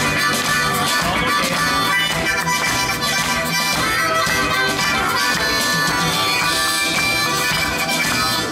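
Live band playing, with a harmonica taking a solo of sustained reedy notes over the guitars and drums.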